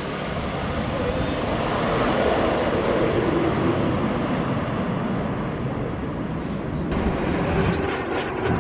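Jet airliner on landing approach, its engine roar loud and steady just after it has passed low overhead. The higher tones slowly fade as it moves away, with a faint falling tone about two seconds in.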